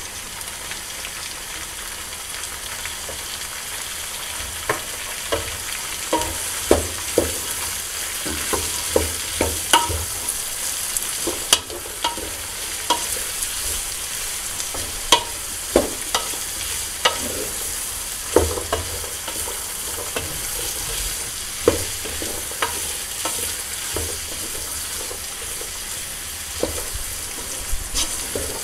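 Fresh beans, onion and turkey pieces sizzling in oil in a pot, stirred with a wooden spoon. The spoon knocks against the pot at irregular moments.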